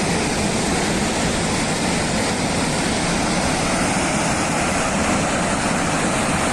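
Steady, loud rushing roar of fast-flowing floodwater, unbroken throughout.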